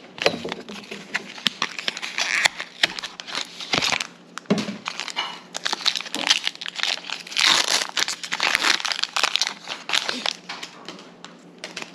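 Foil Pokémon booster pack wrapper crinkling and being torn open, with a steady run of crackles and crisp clicks.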